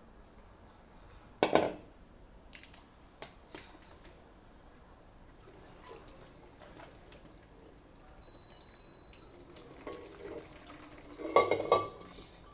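Metal cookware clanking as a pot of boiled rice vermicelli is handled for draining: a sharp knock about a second and a half in, a few lighter clicks, and a loud ringing clatter near the end, with faint water sounds.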